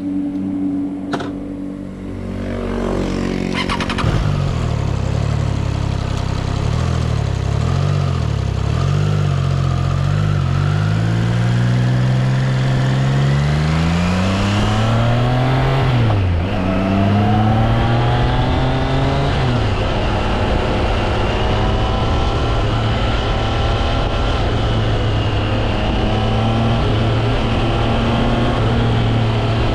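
Triumph Trident 660's inline three-cylinder engine under way: steady revs at first, then pulling and rising in pitch from about four seconds in, a gear change about sixteen seconds in, and steady cruising revs for the rest.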